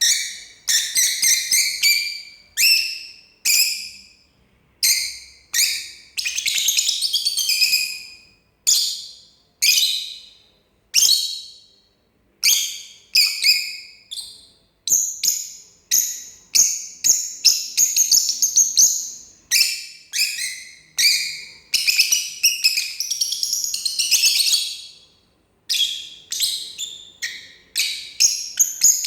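Pet lovebird singing: short bursts of high, rapid chirps and twitters, one after another with brief pauses between them, now and then running on for a couple of seconds.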